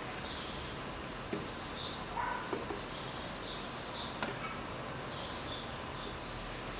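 Small birds chirping in short, high calls scattered throughout, with a few faint knocks.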